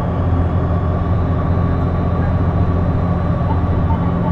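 City bus diesel engine running steadily under way, a loud even drone with a faint high whine over it. The bus is known for an unexplained abnormal noise from the exhaust or turbocharger area.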